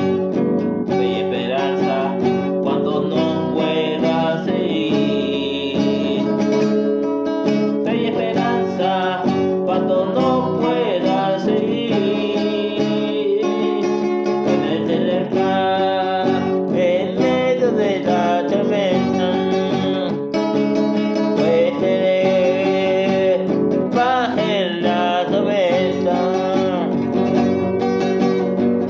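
A song played on acoustic guitar, the chords running steadily, with a melody line over them that bends in pitch at several points.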